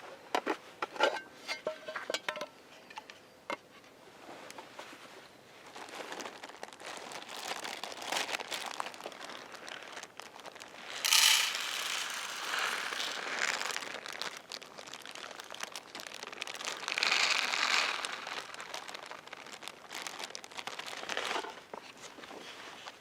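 Crinkling and rustling handling noises, loudest in two surges about 11 and 17 seconds in, after several light clinks and clicks in the first few seconds.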